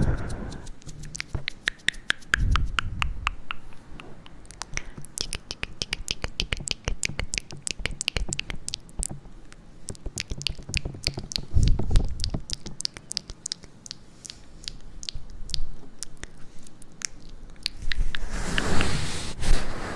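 Close-miked ASMR trigger sounds: a dense, irregular run of quick sharp clicks and taps, with a couple of soft low thuds and a breathy rush near the end.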